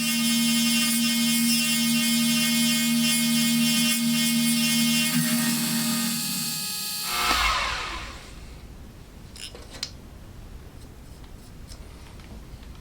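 Carbide end mill cutting on a small milling machine with a loud, high-pitched resonant ring made of many steady tones. The resonance comes from the cutter sticking too far out of the collet under side thrust. About seven seconds in, the cut ends and the sound drops to a low hum with a few faint clicks.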